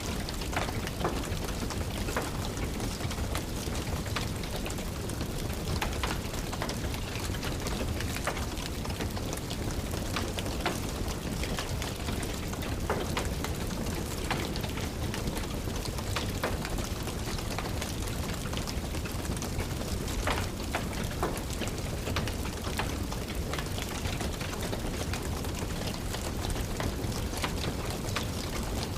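Steady rain falling, with the scattered pops and crackles of a wood fire burning in a fireplace.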